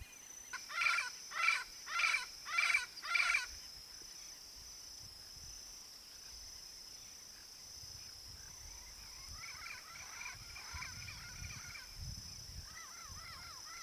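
Yellow-faced parrot (Alipiopsitta xanthops) giving five loud, harsh calls about half a second apart, then after a pause a run of quieter chattering notes toward the end. A steady high-pitched buzz runs underneath.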